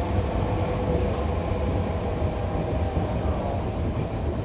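Hankyu electric commuter train running between stations, heard from inside the car by a closed door: a steady rumble of wheels on rails.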